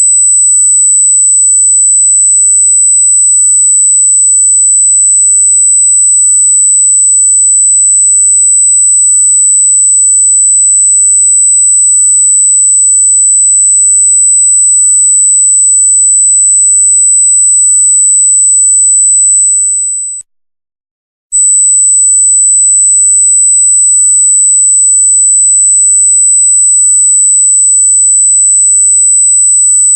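A loud, very high-pitched single pure electronic tone, steady and unchanging in pitch. It dips and cuts out for about a second around two-thirds of the way in, then comes straight back.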